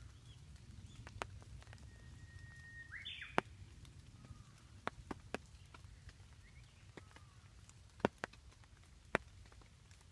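Birds calling: one held whistle about two seconds in that breaks into a quick twittering call, then a few short falling chirps, over a low steady rumble. Scattered sharp taps sound about eight times.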